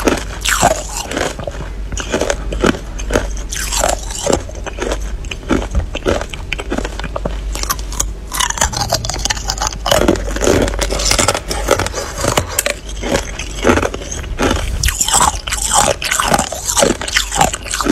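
Hard clear ice being bitten and chewed close to the microphone: dense, irregular crunching and cracking, several crunches a second, over a steady low hum.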